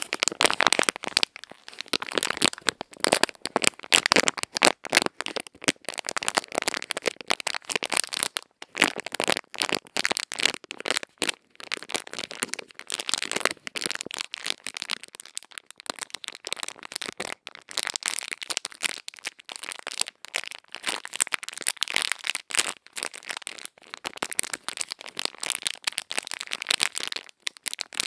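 Ear-cleaning ASMR: a tool scratching and picking close to the microphone, giving dense, crisp crackling and scratching that goes on without pause.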